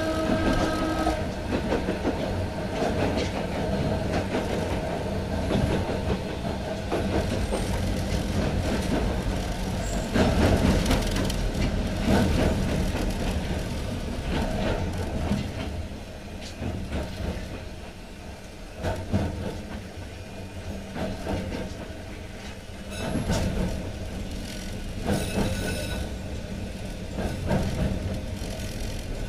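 Yokkaichi Asunaro Railway narrow-gauge electric train running, heard from the car floor: a steady rumble of wheels and track. It is loudest around ten seconds in, eases off past the midpoint, and ends with scattered rail-joint clicks.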